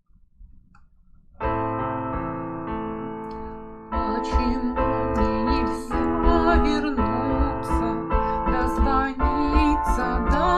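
Keyboard introduction to a song, with an electric-piano sound: a held chord enters about a second and a half in, and a fuller accompaniment with a wavering melody line and a low pulsing bass comes in at about four seconds.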